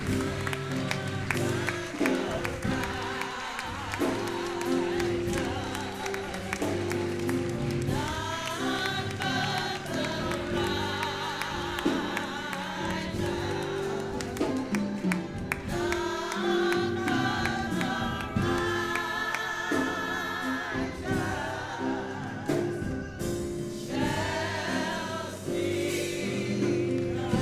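Gospel music: a choir singing over steady instrumental accompaniment, the voices growing stronger about eight seconds in.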